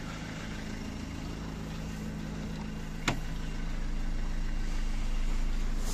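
Renault Kangoo's 1.5 dCi four-cylinder diesel engine idling steadily. A single click comes about three seconds in, after which the engine sound grows slowly louder.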